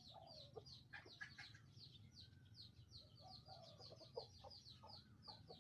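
A decoy chicken clucking faintly in short, scattered calls. Behind it runs an even series of high chirps, about four a second.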